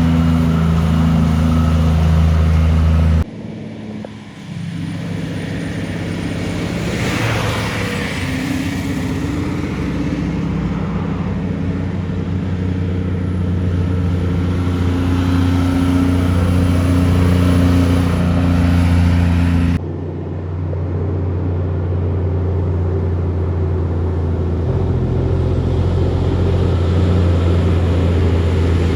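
Heavy trucks' diesel engines running as they go by on a hill, a steady low engine note with a rush of passing-vehicle noise about seven seconds in. The sound changes abruptly twice, about three seconds in and near twenty seconds, where one truck's sound gives way to another's.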